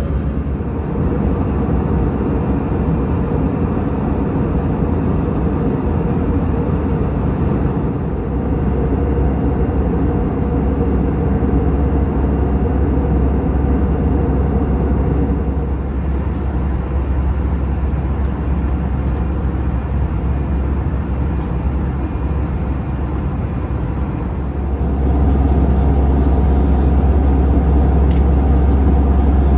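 Steady roar of engines and airflow inside the cabin of a CFM56-powered Airbus A320 in flight, with a deep low rumble. It gets louder about 25 seconds in.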